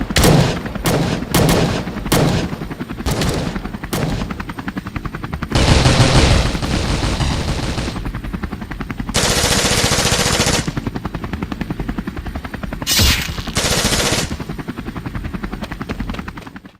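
Machine-gun fire sound effects in a war-film battle scene: rapid, continuous automatic fire with three longer, louder stretches of dense firing about six, ten and thirteen seconds in. The sound cuts off abruptly at the end.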